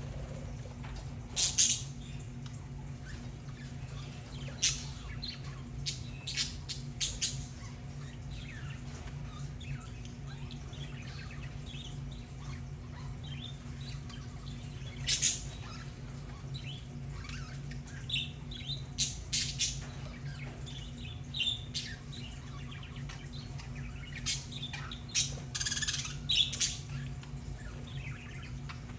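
Budgerigars chirping and squawking in short, scattered calls over a steady low hum.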